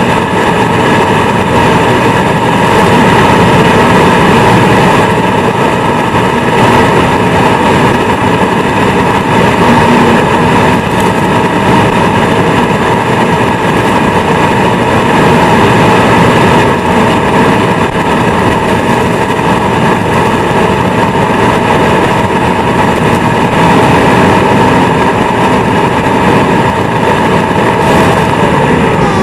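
Vacuum cleaner motor running at full speed, heard from inside the vacuum: a loud steady whine over rushing air. Right at the end the whine begins to drop in pitch as the motor winds down.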